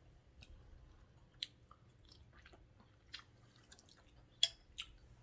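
Close-miked chewing of egg boil with noodles: soft, scattered wet mouth clicks and smacks, the sharpest about four and a half seconds in.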